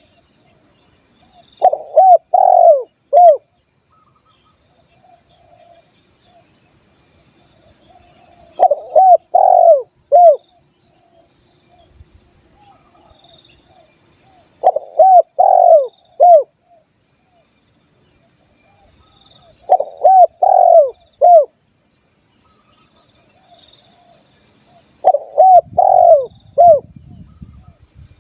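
Spotted dove (tekukur) cooing: five phrases of about four short arched notes each, repeated every five to six seconds. A steady high chirring runs behind them.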